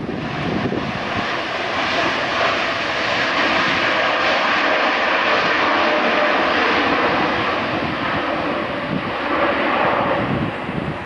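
Jet airliner's engines at takeoff thrust as it climbs out past, a dense steady roar with a faint whine in it that builds to a peak midway and eases slightly near the end.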